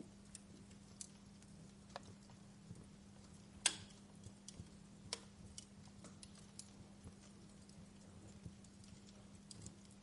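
Wood fire crackling faintly: irregular small pops and snaps, with one sharper pop nearly four seconds in, over a steady low hum.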